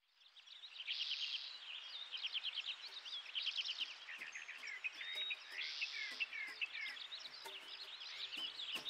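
Songbirds singing in quick chirping, trilled phrases, fading in over the first second. Faint low steady tones join in from about halfway.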